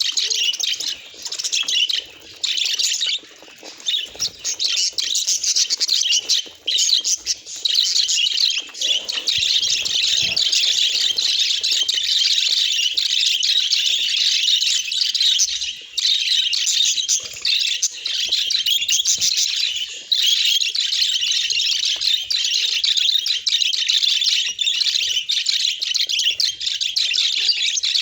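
Budgerigars chattering, a dense stream of rapid chirps and warbles. It breaks off in short gaps over the first few seconds, then goes on almost without pause.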